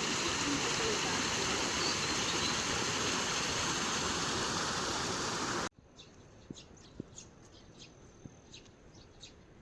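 Loud steady rush of water, an even hiss with no pitch, cut off sharply after about five and a half seconds. After that it is much quieter, with scattered faint ticks and a thin, steady high-pitched tone.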